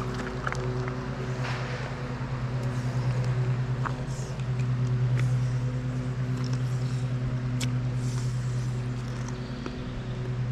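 A steady low motor hum that swells and eases a little, with a few faint clicks over it.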